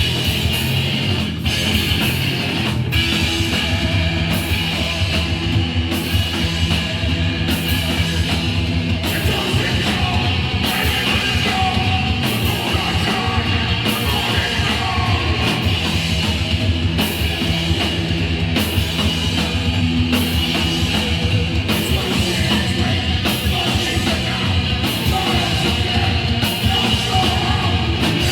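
Hardcore punk band playing live: distorted electric guitar, bass and drums driving along at a steady loud level, with regular cymbal strokes.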